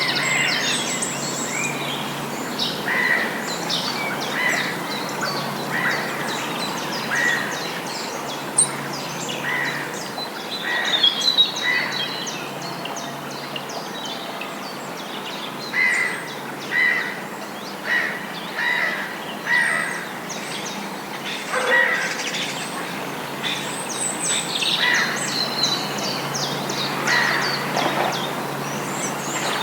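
Several wild birds singing and calling, with high chirps and trills and one short call repeated about once a second, over a steady background noise.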